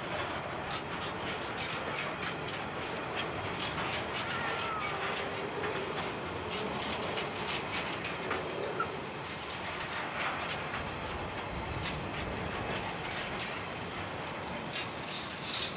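Empty coal hopper wagons rolling past on steel wheels: a steady rumble of wheels on rail with a constant run of clicks and clacks.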